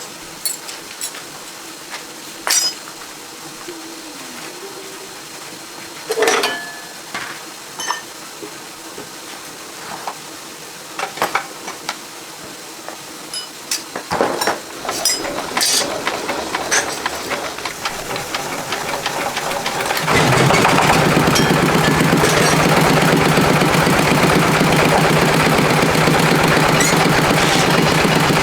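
Scattered knocks and clinks of work, then, about two-thirds of the way in, an engine starts and keeps running steadily and loudly at a constant pitch.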